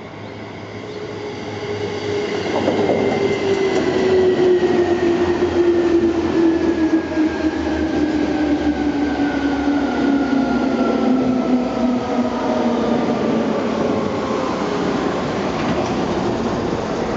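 A Seibu 2000 series electric train of ten cars running past. The sound builds over the first few seconds, then stays loud, with a whine that falls steadily in pitch over a rolling rumble.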